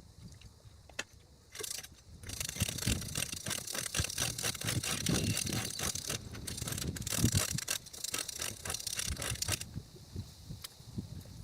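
A jet ski ride heard through a small handheld camera's microphone: wind and water rushing over it, with many knocks and rattles. It swells up about two seconds in and drops back down near the end.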